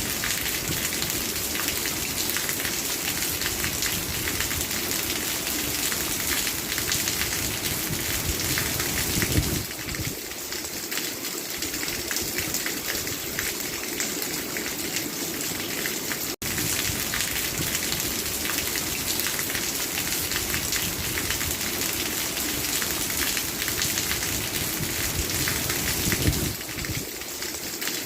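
Steady rain falling, a dense hiss full of fine patters of drops. The sound cuts out for an instant about sixteen seconds in.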